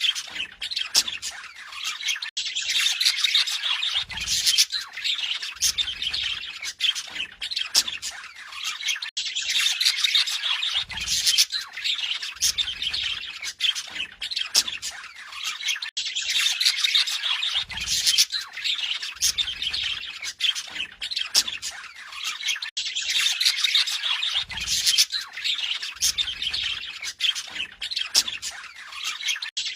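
Budgerigars warbling and chattering without a break, a dense mix of high chirps and squawks.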